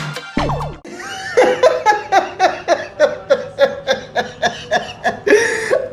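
Disco music cuts off within the first second. Then a person laughs in quick, evenly repeated bursts, about four a second.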